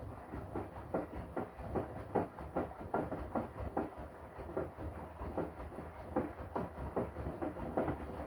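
Washing machine running its wash cycle, the drum turning the load in a regular rhythm of strokes about two to three times a second over a low motor hum.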